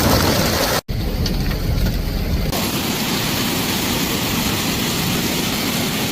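A hailstorm pelting down: a loud, steady, even noise of heavy precipitation hitting surfaces. It breaks off for an instant just under a second in, and its character changes about two and a half seconds in.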